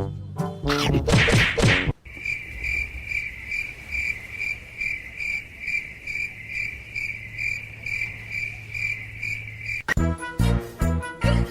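Insect chirping: a high chirp repeating evenly about three times a second for some eight seconds, over a low steady hum. It follows a short loud burst of sound at the start, and music comes in near the end.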